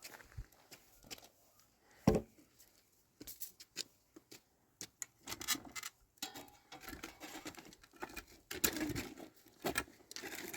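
Irregular clicks, knocks and scraping from objects being handled, with one sharper knock about two seconds in.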